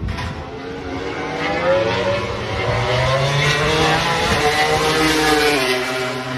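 MotoGP racing motorcycle engine running on track, its pitch gliding up and down as the rider works the throttle and gears. It grows louder through the middle and eases off near the end.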